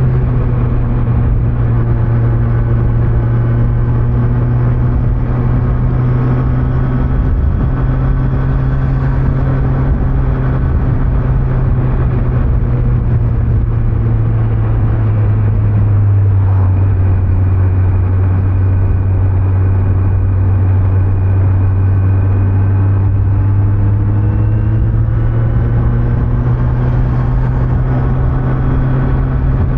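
Kawasaki Z900's inline-four engine cruising at steady revs, with road noise. The engine note drops slightly about halfway through and climbs back up near the end as the throttle is eased and reopened.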